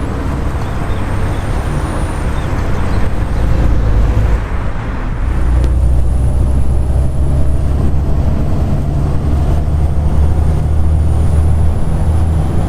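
Volvo B7TL double-decker bus heard from inside, its six-cylinder diesel droning steadily and getting louder about six seconds in, with a thin high whine, the bus's so-called 'hoover', rising and falling twice. There is a hiss over the first five seconds.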